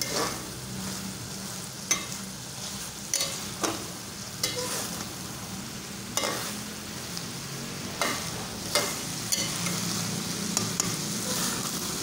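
Chicken keema with peas sizzling as it is dry-fried (bhuna) in the oil that has separated out of it, in a metal pot. A spoon stirs and scrapes against the pot in irregular strokes about every second.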